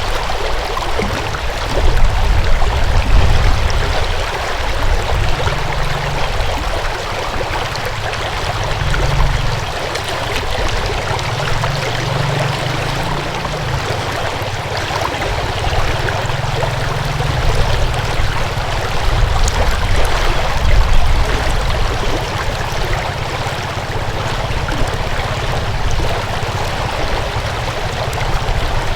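Water flowing in a stream, a steady rushing and burbling, with a low rumble underneath that swells and fades every few seconds.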